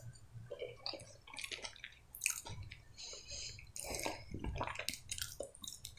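Close-up chewing of a mouthful of mashed potato: faint wet, squishy mouth sounds and lip smacks, with a few short clicks scattered through.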